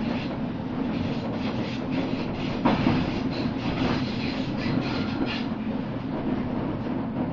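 Train running along the track with a steady rumble and a run of wheel clacks over rail joints, the sharpest about three seconds in.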